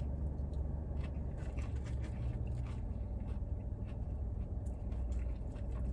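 Faint crunching and mouth clicks of a man chewing a crisp, skin-on seasoned french fry, over a steady low hum inside a car cabin.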